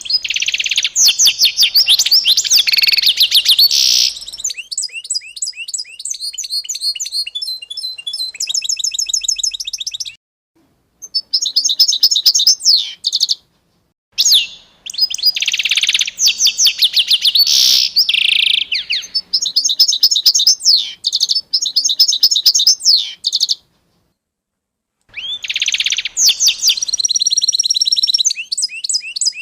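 Songbird song: fast runs of repeated high chirps and trills, in several phrases broken by brief dead silences about ten, fourteen and twenty-four seconds in.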